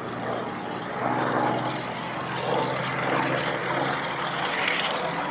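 Propeller-driven aircraft flying at an airshow, its piston engine giving a continuous drone that swells and eases slightly.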